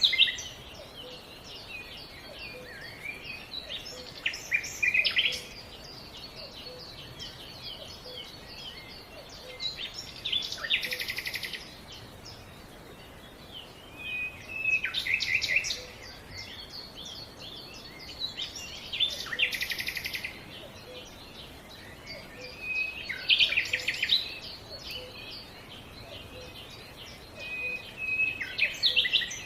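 A songbird singing the same short phrase over and over, about every four to five seconds. Each phrase opens with a clear note and ends in a fast trill, over a faint steady outdoor background.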